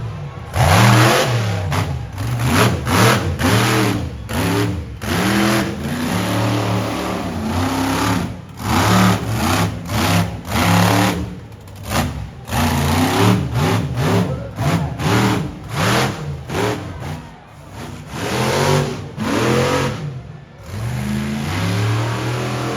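Monster truck engine revving hard in repeated throttle bursts, its pitch rising and falling with short drops between bursts.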